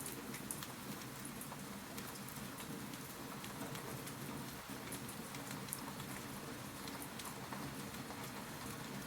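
Wood fire crackling: a steady soft hiss with many small, sharp pops scattered irregularly through it.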